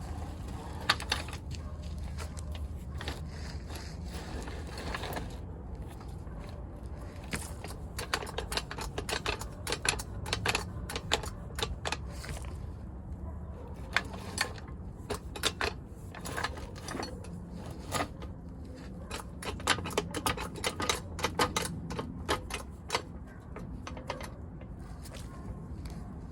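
Hand tools clicking and tapping on metal parts, in irregular clusters of sharp clicks, over a steady low hum.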